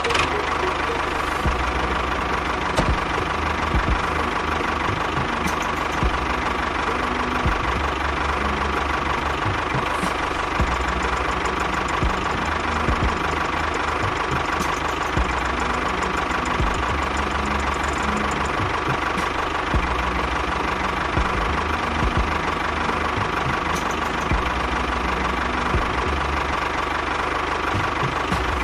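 Engine of a homemade tractor running steadily for the whole stretch.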